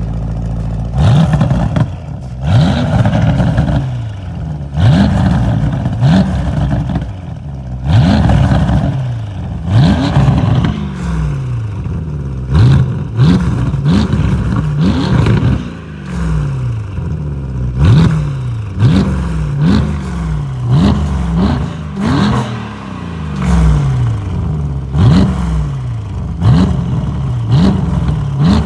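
Porsche Panamera 4.0-litre V8 with a sports exhaust system, blipped again and again from idle: short sharp revs about every one to two seconds, each rising quickly and falling back, with pops on the way down.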